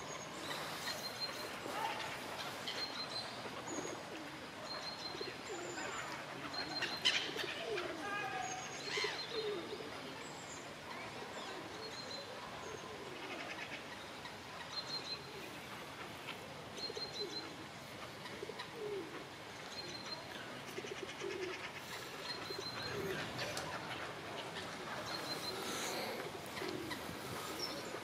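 Mixed wild birdsong: short high chirps in twos and threes repeated every second or two, over a run of lower, softer notes, with one louder call about seven seconds in.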